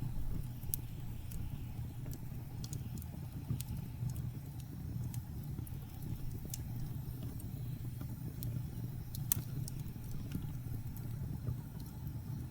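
Wood fire crackling in a fireplace: sharp, irregular pops and snaps, one louder about nine seconds in, over a steady low rumble of blizzard wind.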